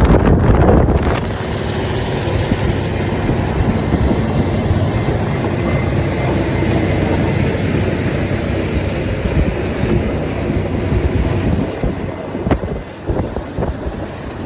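Blizzard wind blowing hard and buffeting the microphone in uneven gusts.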